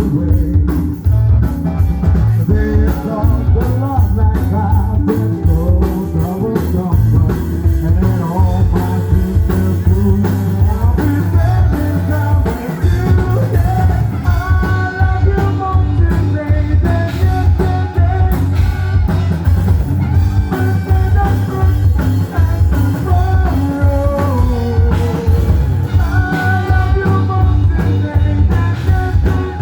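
Rock band playing with a singer: loud, steady drums and bass under guitar and vocal lines.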